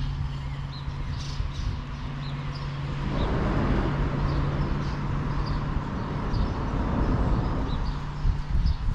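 A bird chirping repeatedly in short high notes over a steady low hum and rumble, with a broader rushing noise that swells in the middle for several seconds.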